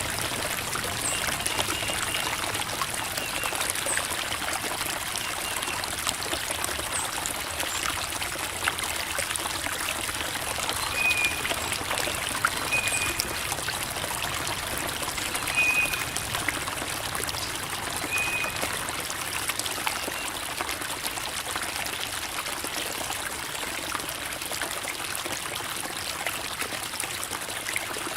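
Creek water babbling and trickling over rocks in a steady, even rush full of small splashes. A few faint, short bird chirps come through above it.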